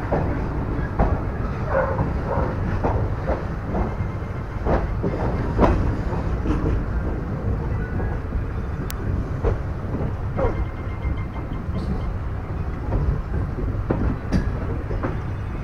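Passenger train running, heard from aboard: a steady low rumble with irregular clicks and knocks of the wheels over rail joints and points.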